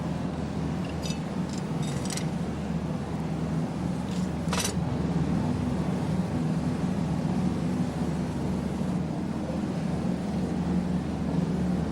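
Steady low mechanical hum of machinery running, with a few light metallic clinks near the start and one sharper metal clank about four and a half seconds in, from iron parts being worked loose.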